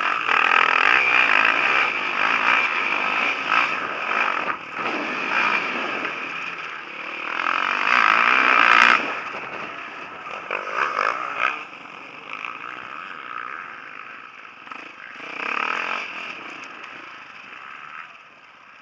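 Motocross bike engines revving hard as the bikes race past, loudest about nine seconds in, then dying away.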